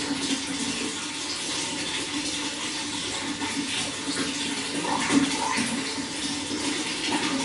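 Running water flowing steadily: a continuous rushing splash with occasional brief gurgles.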